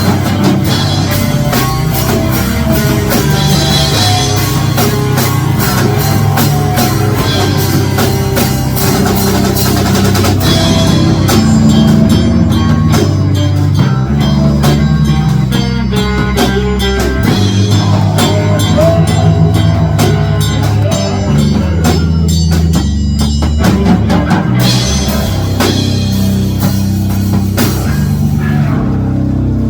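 Rock music with a full drum kit, bass and electric guitar playing loudly and steadily; the drums drop back briefly about two-thirds of the way through.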